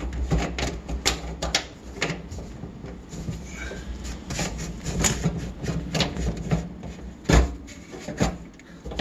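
Clicks, taps and knocks of plastic PVC sink drain pipes and slip nuts being worked loose and handled, with a sharper knock about seven seconds in, over a steady low hum.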